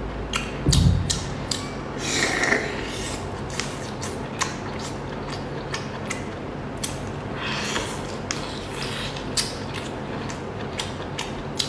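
Close-up handling of food with hands and utensils: an irregular run of small sharp clicks, with longer scraping rubs about two seconds in and again around eight seconds.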